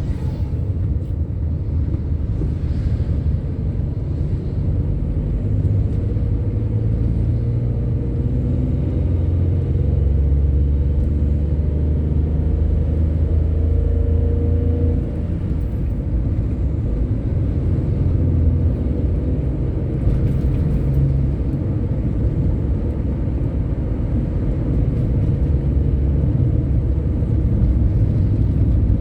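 Scania K310IB bus's diesel engine running under way: a steady low rumble whose pitch shifts a little, with a slight drop in level about halfway through.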